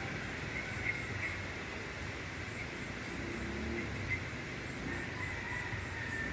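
Steady outdoor background hum with faint, scattered bird calls.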